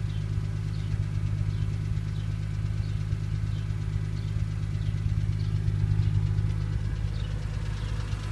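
BMW M3's S54 straight-six idling steadily at warm operating temperature, with its usual ticking noise quiet.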